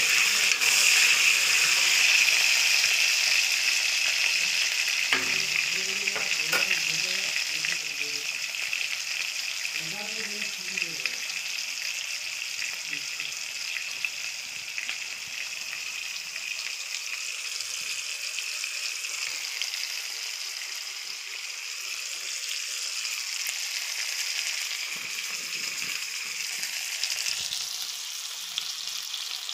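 Potato wedges and tomato slices sizzling in hot oil in an iron kadhai, a steady frying hiss that is loudest at first and slowly eases off.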